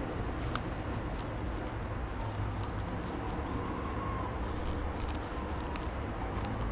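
Zeppelin NT airship's propeller engines droning steadily, a low rumble, with scattered short high-pitched ticks over it.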